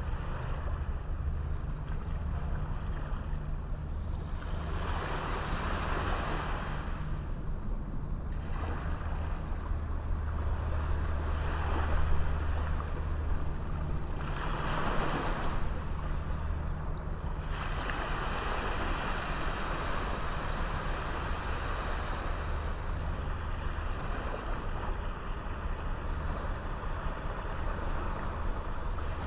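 Small waves washing in on a beach, the surf swelling and falling back every few seconds, over a steady low rumble.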